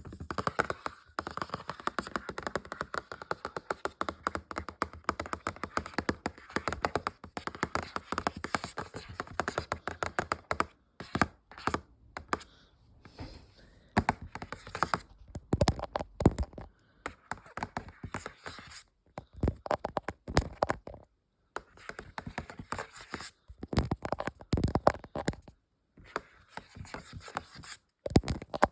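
Fast tapping on objects: a dense, rapid run of taps for about ten seconds, then shorter runs of quick taps with brief pauses between them.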